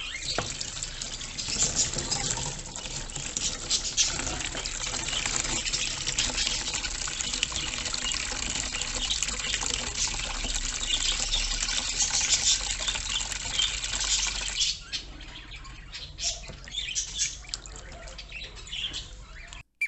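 Water running steadily from a tap, stopping about 15 seconds in, with budgies calling in the background.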